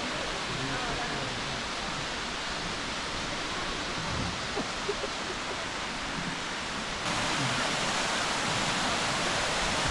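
Waterfall rushing steadily, a little louder from about seven seconds in.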